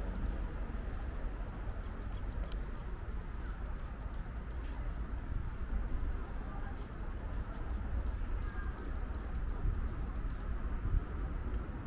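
A bird calling over and over, a run of short high chirps at about three a second that starts about a second in and stops near the end, over a steady low rumble.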